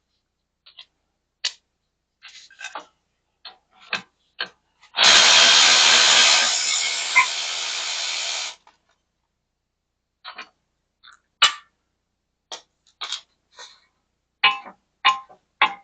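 A handheld power tool runs in one burst of about three and a half seconds on a bolt that won't come loose, easing off partway through and stopping abruptly. Scattered clicks and clinks of hand tools come before and after it.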